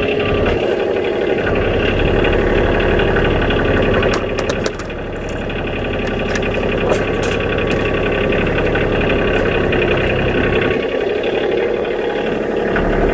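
Kioti DK35 SE compact tractor's diesel engine running steadily, with a short dip in level about four and a half seconds in and a few faint clicks over the next couple of seconds.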